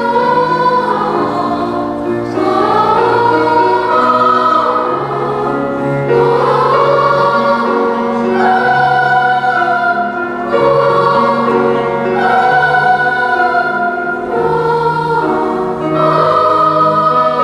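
Children's choir singing a wordless song in sustained phrases, the melody moving to new notes every couple of seconds.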